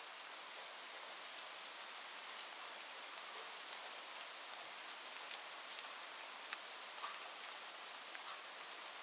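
Steady rain ambience, an even hiss with scattered sharp drop ticks.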